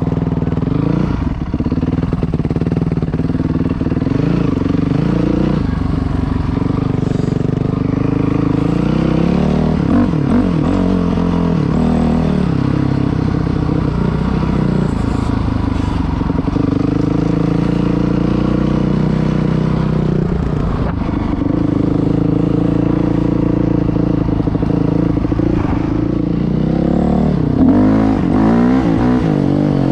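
Dirt bike engine running under load as it is ridden, its pitch rising and falling with the throttle, with a sharper rev climbing near the end.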